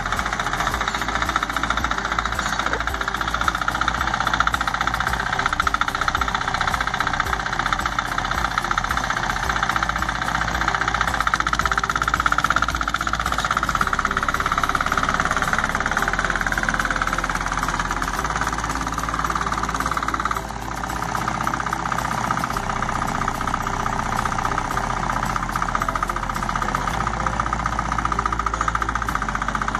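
Homemade four-wheel-drive mini tractor's engine running steadily while pulling a plough, with a rapid knocking beat and a brief dip in level about two-thirds of the way through.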